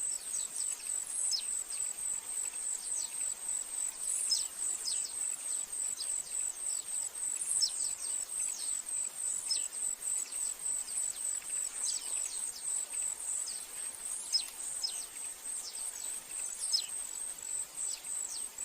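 An insect's high, steady pulsing trill, with short downward-sliding bird chirps coming one or two a second over it.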